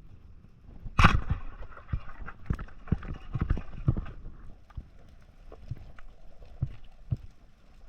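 A series of irregular sharp knocks and clacks, the loudest about a second in, with a cluster of them over the next three seconds and scattered fainter ones after.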